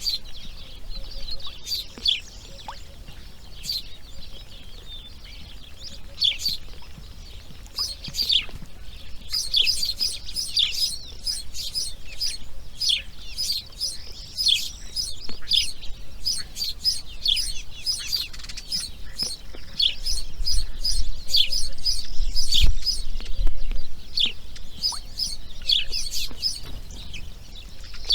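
Birds giving rapid, high, downward-sliding chirps over and over, coming thicker from about nine seconds in, with a low rumble underneath about two-thirds of the way through.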